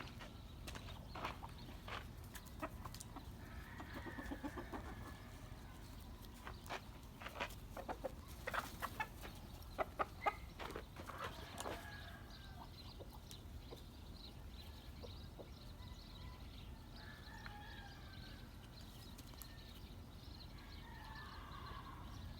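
Chickens clucking softly now and then, with a run of sharp clicks or taps through the first half, loudest about ten seconds in.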